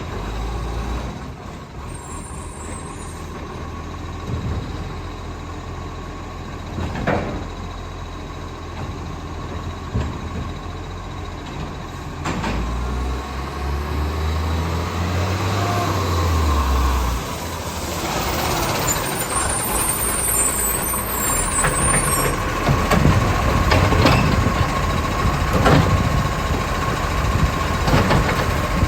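Garbage truck's diesel engine running, revving up and back down for a few seconds about halfway through, with scattered knocks and clanks. A steady beeping tone runs through the second half.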